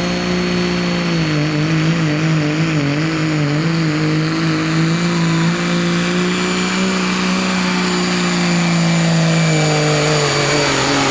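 Dodge diesel pickup's Cummins straight-six running hard under load while pulling the sled, with a thin high whistle over it. The engine note holds fairly steady with small wavers and dips slightly near the end.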